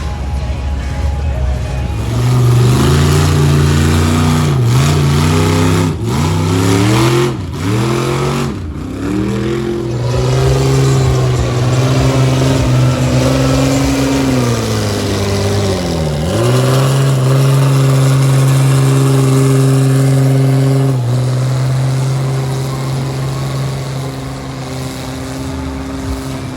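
Off-road truck engine revving hard, its pitch dropping sharply and climbing back several times, then held high at full throttle for a few seconds before easing off slightly near the end.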